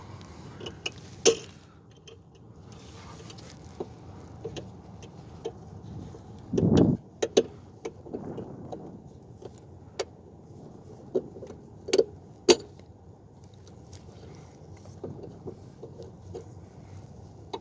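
Hand tools and small metal parts clicking and clinking during work on a car, several sharp separate clicks spread out, with a short low rumble near the middle.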